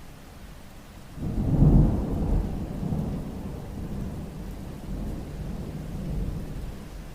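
Rain with a thunder rumble that swells suddenly about a second in and rolls on, slowly fading.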